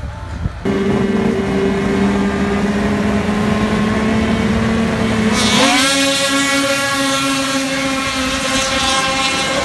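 Two-stroke snowcross race snowmobile engines held at high, steady revs. A little past halfway a louder, higher-pitched engine takes over with a quick upward sweep in pitch, then holds steady.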